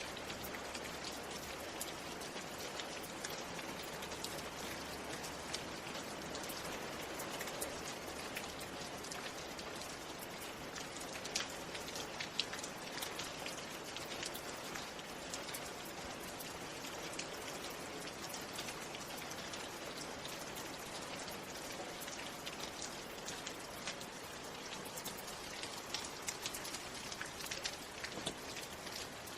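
Steady rain falling, with the sharp ticks of single drops hitting a surface scattered through it.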